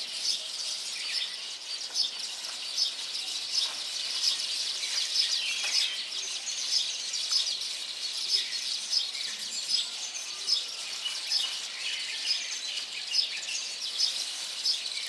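Weaver birds chattering: a continuous stream of many short, high chirps from several birds at once.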